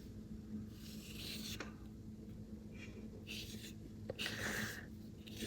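Paintbrush loaded with acrylic paint stroking across gesso-primed paper: a few faint, soft brushing swishes.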